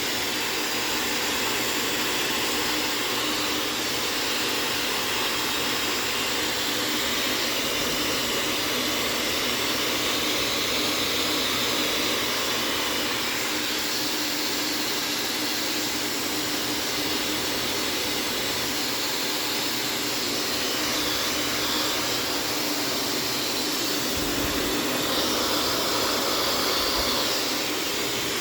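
Blow dryer running steadily on a dog's coat: a continuous loud rush of air with a faint steady hum underneath.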